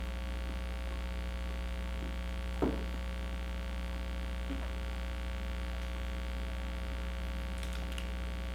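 Steady electrical mains hum, with one short click about two and a half seconds in.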